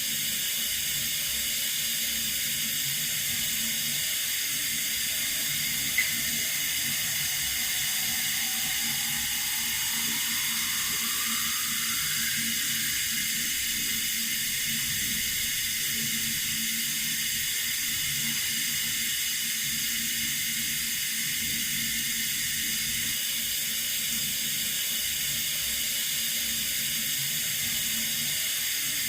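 Water running steadily, a constant bright hiss, with a faint rising tone around ten seconds in and a small click about six seconds in.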